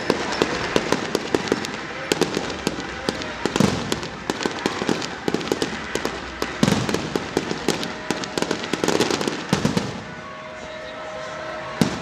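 Fireworks going off: a dense run of sharp bangs and crackles that thins out about ten seconds in, with one last bang near the end.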